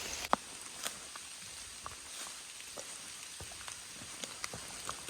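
Light rain falling: scattered single raindrops ticking close by, a few each second, over a soft steady hiss, with one sharper drop about a third of a second in.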